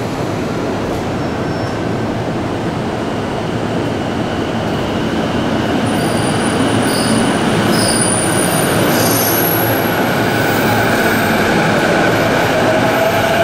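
JR East E233-series electric commuter train moving off alongside the platform and picking up speed, with rolling rumble that slowly grows louder. High thin squealing tones come in midway, and motor whine tones appear near the end.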